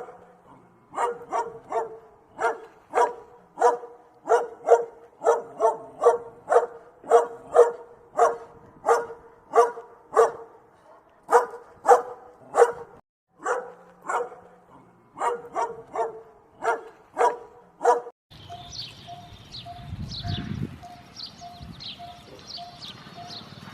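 A dog barking over and over, about two barks a second with a few short pauses. About eighteen seconds in it cuts off and gives way to a different animal recording: a noisier background with high chirps and an evenly pulsing tone.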